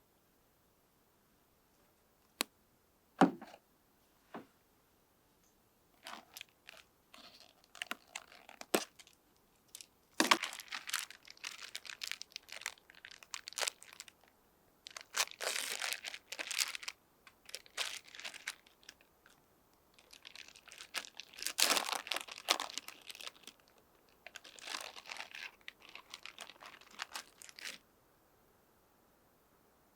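Crinkling and rustling handling noise, close up, in several irregular bouts. A few sharp knocks come about two to four seconds in.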